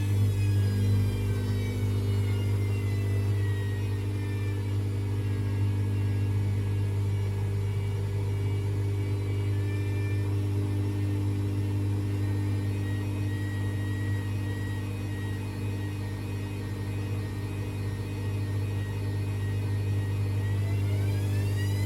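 AEG Lavamat washing machine running, its motor whine falling in pitch over the first ten seconds or so, then rising again near the end, over a steady low hum.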